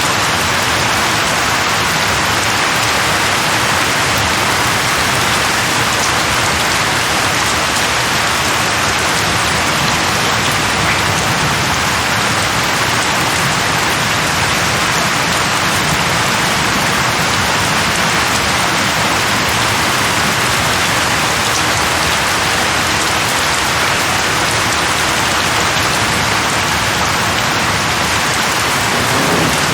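Steady rain falling on tree leaves, an even, unbroken hiss.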